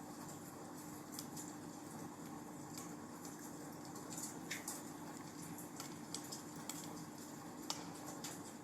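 Wood fire in a fireplace crackling, with scattered sharp pops and snaps at irregular moments over a soft steady hiss.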